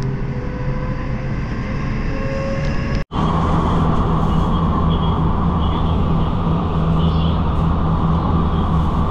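Inside the cabin of an electric train running at about 120 km/h: a steady rumble of wheels on rails with a steady hum. The sound drops out for an instant about three seconds in and comes back a little louder.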